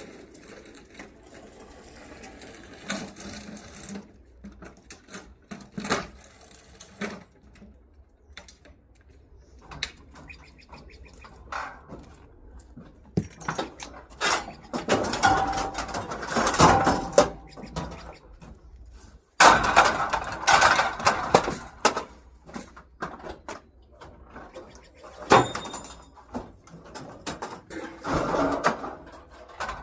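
Hard objects being handled and sorted: scattered knocks and clicks, with louder stretches of scraping and rattling around the middle, about two-thirds in, and near the end.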